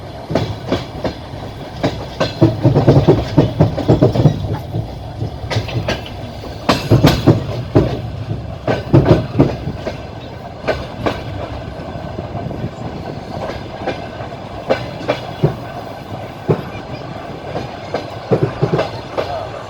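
Wheels of a moving train clattering over rail joints, heard from the carriage window: groups of sharp clicks every second or two over a steady low rumble.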